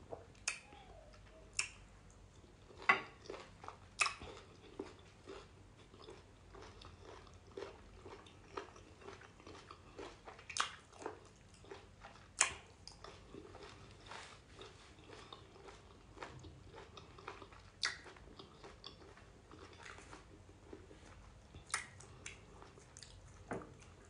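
Close-miked mouth sounds of a person eating pounded yam and black soup: chewing with irregular wet smacking clicks, a few louder ones every couple of seconds.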